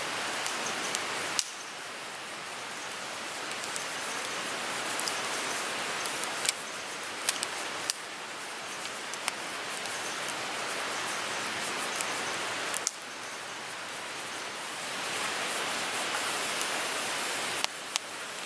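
Wood fire burning in a Picogrill 398 fire grill: a steady hiss with scattered crackles and a few sharp pops.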